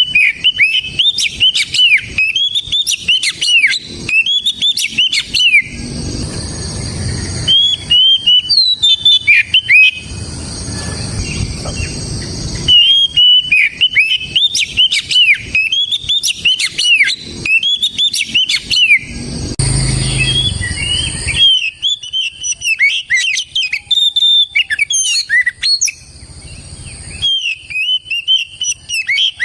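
Oriental magpie-robin singing loudly: phrases of quick, clear whistled notes sweeping up and down, broken by short pauses.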